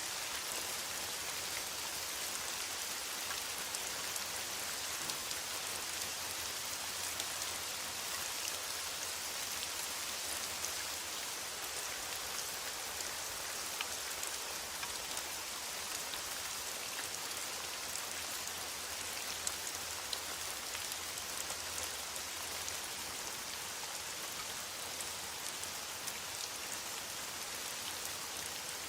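Steady rain falling in a forest: an even hiss with scattered drops ticking through it.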